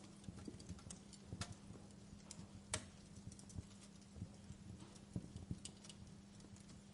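Wood fire crackling in a fireplace: faint, irregular snaps and pops, the sharpest about two and three-quarter seconds in, over a low steady hum.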